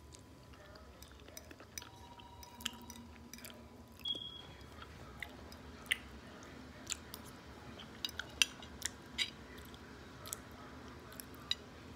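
A person chewing food close to the microphone, with short sharp mouth clicks and smacks scattered irregularly throughout.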